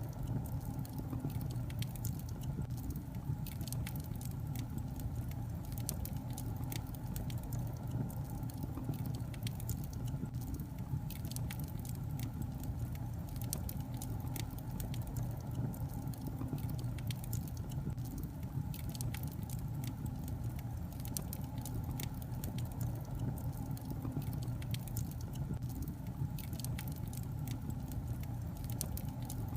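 Logs burning in a fireplace: a steady low rumble of flames with many small, sharp crackles and pops scattered all through.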